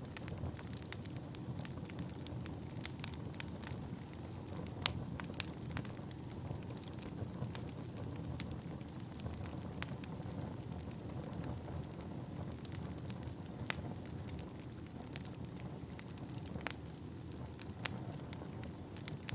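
Wood fire burning in a fireplace: a steady low rumble of flames with irregular sharp crackles and pops of burning logs, one louder pop about five seconds in.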